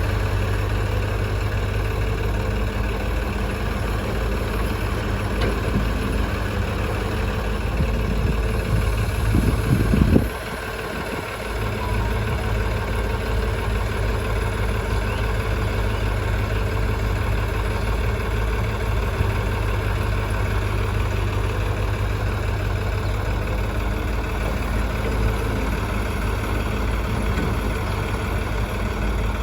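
Heavy diesel engine idling steadily with a deep rumble. About nine to ten seconds in it grows louder, then drops off abruptly and settles back to a steady idle.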